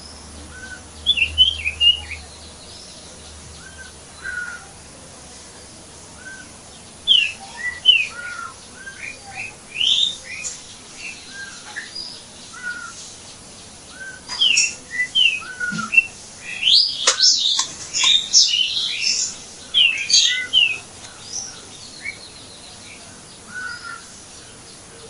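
Several songbirds chirping and calling in short whistled notes, sparse at first and busiest in the second half, over a faint steady background hiss.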